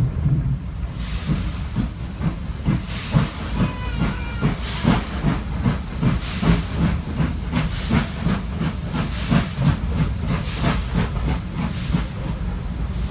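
Stanier Black 5 4-6-0 steam locomotive working its train, heard from a carriage window: a steady, quick beat of exhaust chuffs with steam hiss over the rumble of the carriages, the chuffs coming in about a second in. A brief high tone sounds around four seconds in.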